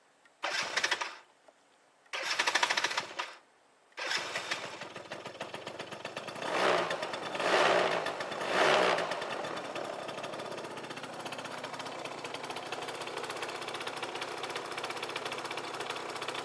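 Yamaha Axis 90 scooter's two-stroke single-cylinder engine: two brief starting attempts, then it catches about four seconds in, is blipped three times and settles into a steady idle. The freshly fitted drive belt and weight rollers make no abnormal noise from the drive train.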